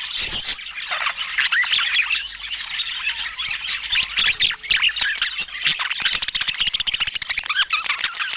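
Budgerigar chatter: a dense, unbroken run of quick warbling calls, squawks and clicks.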